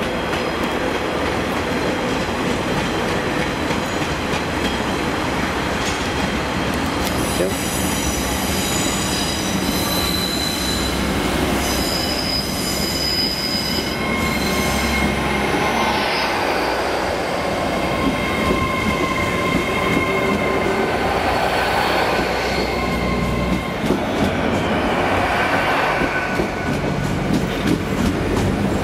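Hitachi Class 800 train running close past on its underfloor diesel engines: a steady low drone, with high-pitched wheel squeal in the first half and whining tones, some rising, in the second half.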